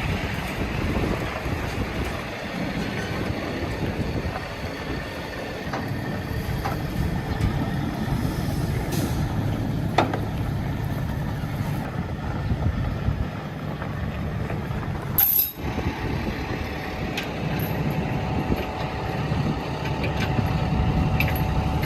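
Heavy truck engine running as a truck pulls in slowly, towing a dead military 6x6 semi. About fifteen seconds in there is a short sharp sound.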